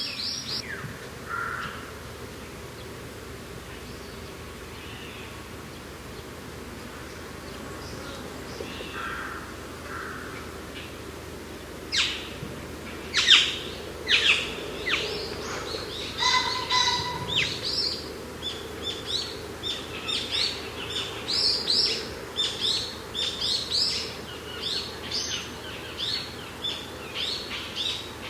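Wild birds chirping and calling over a steady background of wind. Only a few faint calls for the first twelve seconds or so, then a busy run of quick, repeated high chirps.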